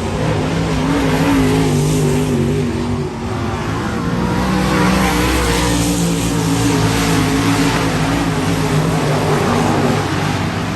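Dirt modified race cars' V8 engines running hard on a dirt oval, several engines overlapping, their pitch rising and falling as the cars go around. There is a brief dip in loudness about three seconds in.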